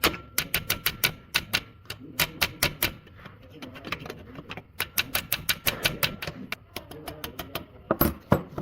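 Rapid sharp clicks in short runs of several a second, with brief pauses between runs, and two heavier knocks near the end.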